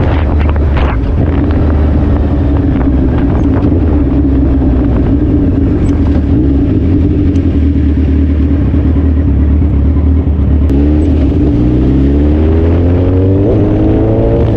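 Suzuki Hayabusa's inline-four engine running at a steady speed, then about three-quarters of the way through its note dips and climbs steadily in pitch as the bike accelerates.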